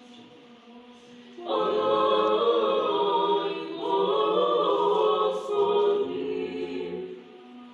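Several pets singing together in a drawn-out howling chorus of overlapping held notes. It starts about a second and a half in and dies away near the end, over the steady hum of a fan.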